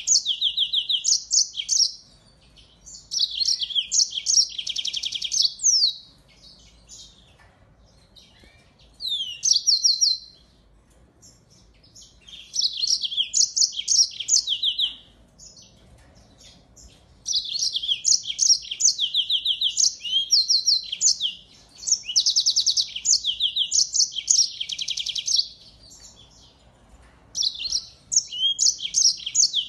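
Finch song in phrases of rapid trills and fast repeated high notes, each phrase a second or a few long, with short pauses between them.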